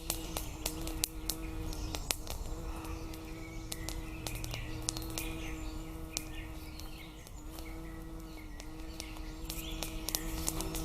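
Forest birds chirping over frequent sharp, irregular clicks and a steady low hum.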